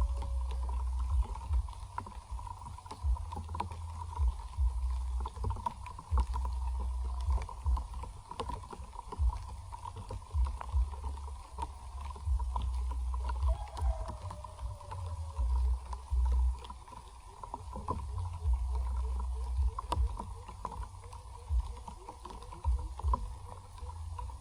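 Gusting wind buffeting the microphone in a heavy, uneven rumble, with scattered light clicks and a steady faint high hum in the background.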